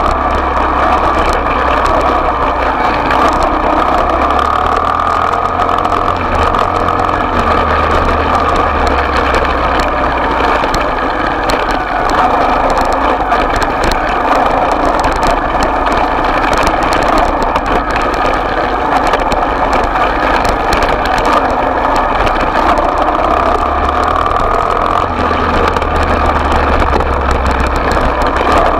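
Small off-road motorbike engine running steadily at a fairly constant speed.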